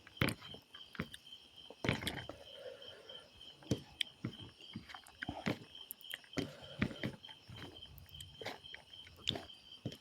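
Someone eating: irregular wet clicks and smacks of chewing and mouth sounds, with a steady high insect trill behind.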